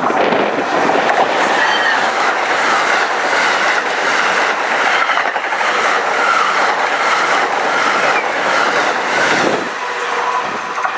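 Loud, continuous clattering noise with a wavering high squeal over it, dropping away sharply near the end.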